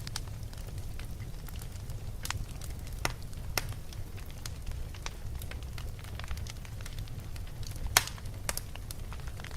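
Wood fire burning in a fireplace: a steady low rumble with scattered sharp crackles and pops, the loudest pop about eight seconds in.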